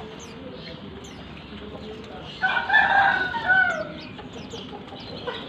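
A rooster crows once, a loud call of about a second and a half that falls in pitch at the end, over faint high chirping of small birds.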